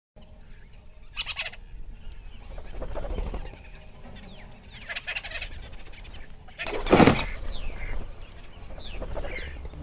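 Birds calling in a run of separate calls with short rising and falling whistles. A louder, noisier call comes about seven seconds in.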